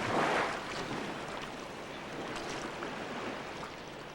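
Sea waves washing: a surge of surf in the first half-second, settling into a steady wash.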